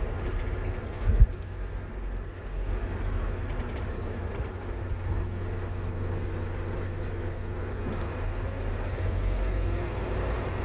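Scania K230UB single-deck bus engine running steadily under way, heard from inside the bus, with one sharp thump about a second in.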